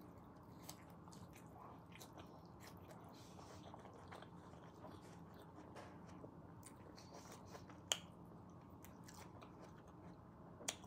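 A person chewing a mouthful of food close to the microphone, faint, with scattered small wet mouth clicks and one sharper click about eight seconds in.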